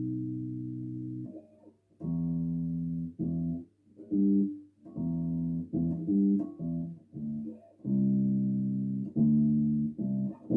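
Bass guitar played solo: a phrase of plucked notes, some held for a second or more and some short, with brief gaps between them.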